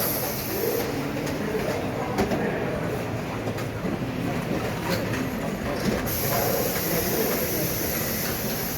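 Automated fan-assembly line running in a busy exhibition hall: a steady machine noise with occasional sharp clicks, and a high hiss that stops about a second in and comes back about six seconds in, over faint chatter.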